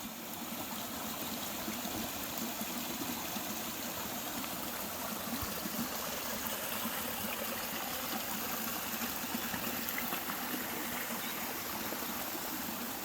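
Running water, a steady, even rush like a forest stream, with no change in level.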